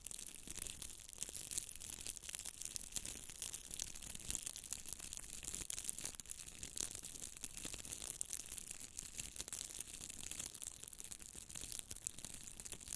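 Close-miked scratchy, crackling rustle of continuous friction, full of fine clicks.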